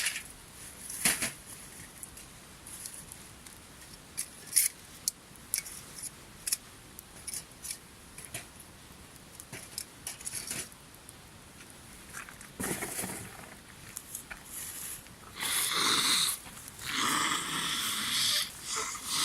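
Scattered light clicks and knocks from hands working at a camp cooking fire, likely while charcoal is being added. Near the end come a few seconds of louder rustling.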